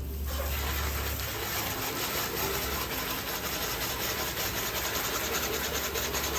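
Water spray hissing steadily against a 2013 Jeep Wrangler as it is washed down, starting abruptly.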